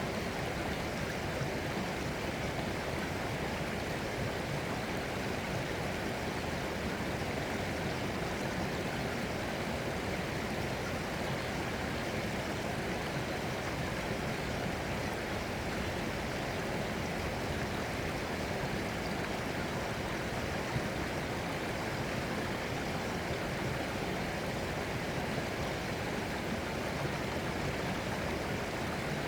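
Running water, a continuous, even rushing with no change in level, in the manner of a flowing stream.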